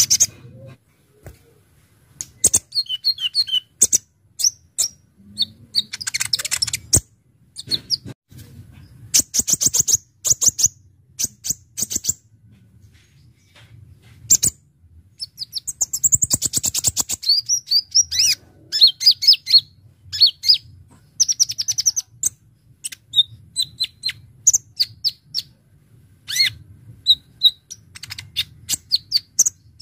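Kolibri ninja sunbird singing: bursts of sharp, high-pitched chirps and fast rattling trills, broken by short pauses.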